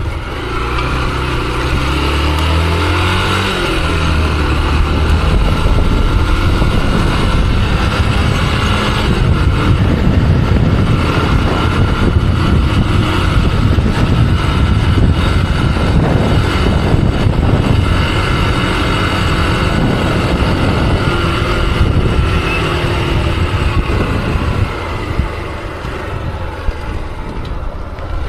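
Motorcycle on the move: engine pitch climbs in steps over the first few seconds as it accelerates, then a steady rush of wind and road noise with the engine underneath.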